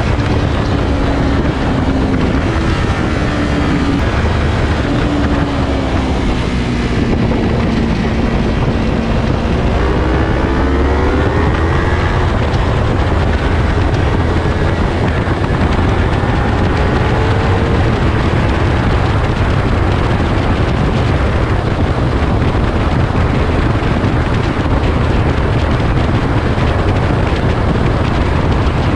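Yamaha R3's parallel-twin engine under way at speed, its pitch falling and rising several times as the rider rolls off and accelerates. Heavy wind rush on the microphone throughout.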